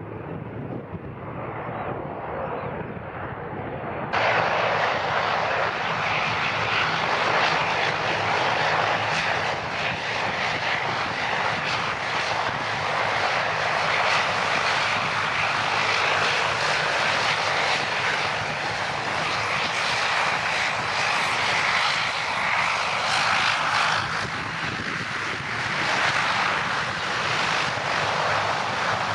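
Propeller aircraft engine noise close by, turning suddenly louder about four seconds in and staying loud after that.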